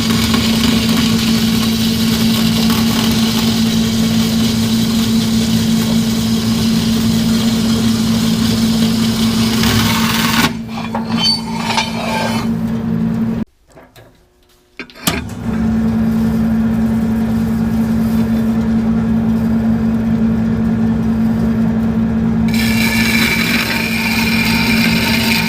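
Metal-cutting bandsaw running with a steady motor hum and the hiss of the blade cutting through steel. The cutting hiss fades about ten seconds in and the sound drops out briefly soon after. The saw then hums on, and the cutting hiss picks up again near the end.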